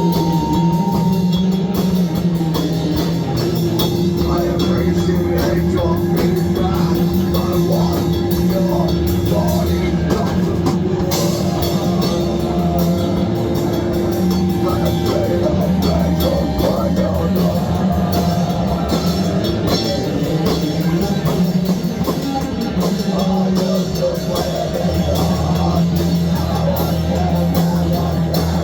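Loud rock music with a drum kit keeping a steady beat, played continuously.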